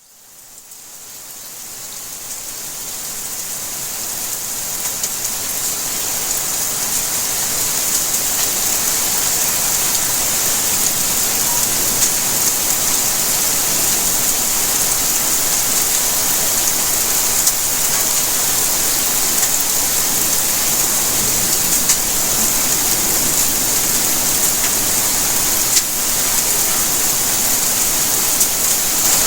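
Steady rainfall, an even hiss with scattered faint drop ticks, fading in from silence over the first several seconds and then holding steady.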